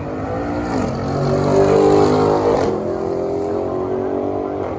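Drag racing cars launching from the start line and accelerating down the strip. The engine note climbs and then drops sharply twice as they shift gears, loudest about two seconds in.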